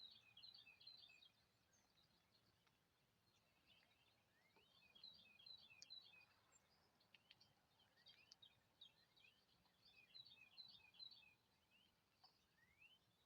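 Songbirds chirping faintly in short bursts of quick high notes, a new burst every two to three seconds, with a single rising whistle near the end.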